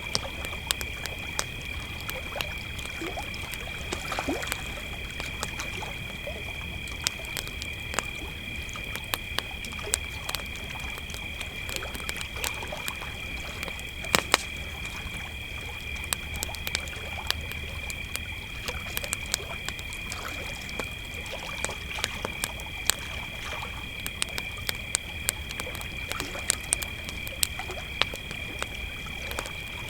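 Crickets chirring in a steady chorus, with a campfire crackling and popping irregularly throughout over a low steady rumble.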